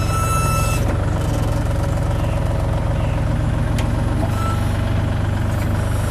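Bobcat E32 mini excavator's diesel engine running steadily, heard from the operator's seat, with a brief high-pitched whine in about the first second.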